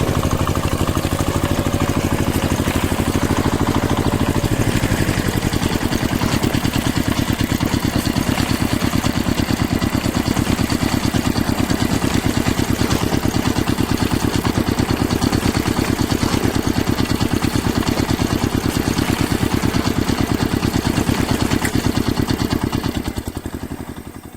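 Engine running steadily with a rapid, even beat, fading out near the end.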